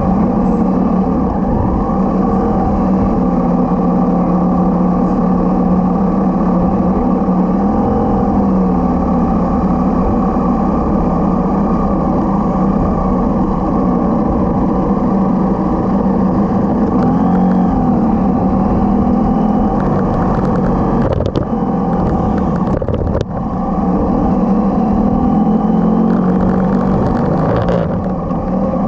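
Motorcycle engine running at a steady cruising speed as the bike is ridden along, with a constant low rumble. The engine note drops briefly twice, about 21 and 23 seconds in, as the throttle eases or a gear changes.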